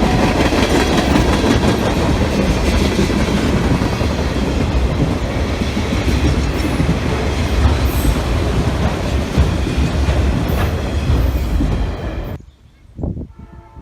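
Train passing close by, its wheels clattering over the rails with a heavy rumble; the sound cuts off abruptly about twelve seconds in.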